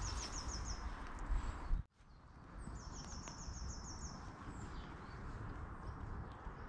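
A small songbird sings a quick run of about nine high, falling notes lasting about a second, twice. Under it is a steady low rumbling noise, which drops out briefly about two seconds in.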